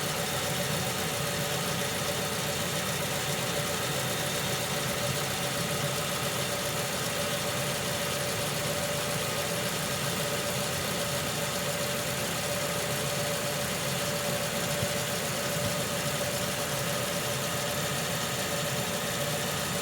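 Toyota Camry 2.4-litre four-cylinder engine idling steadily while it warms up toward operating temperature, with the radiator cap off to let air bubbles escape from the freshly refilled cooling system.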